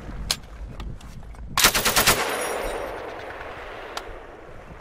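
M240G 7.62 mm medium machine gun firing a short controlled burst of about seven rounds about a second and a half in, with range echo rolling after it. There is a single sharp shot shortly after the start and another about four seconds in.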